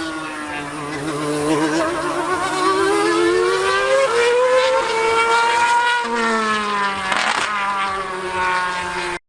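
A high-revving racing engine on the circuit, its pitch rising and falling as it changes gear and speed, over a steady low hum. The sound cuts off abruptly at the very end.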